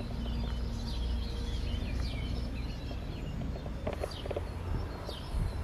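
Small birds chirping, many short falling notes repeating over a steady low rumble, with a few faint knocks about four seconds in.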